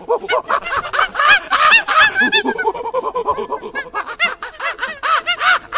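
Monkey chattering: a rapid, unbroken run of short, high, arching calls, several a second.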